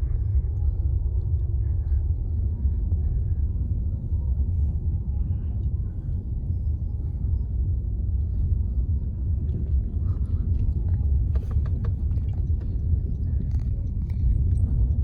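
Steady low rumble of a car driving, heard from inside the cabin, with a few faint ticks about three-quarters of the way through.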